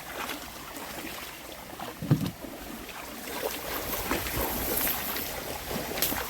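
Wind on the microphone over lapping water, with a single knock about two seconds in and a rise in hissing noise near the end.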